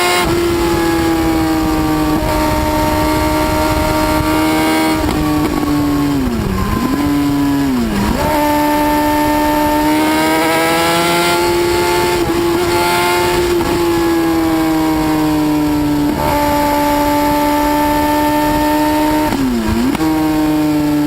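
High-revving motorcycle engine, its note held high and steady for long stretches, dipping sharply in pitch and climbing straight back three times.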